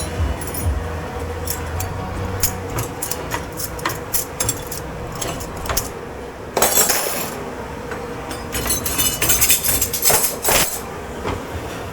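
Crockery, glasses and cutlery clinking and clattering as they are handled and stacked in a kitchen dish pit: irregular sharp knocks, with a dense flurry about halfway through and another longer one later, over a faint steady hum.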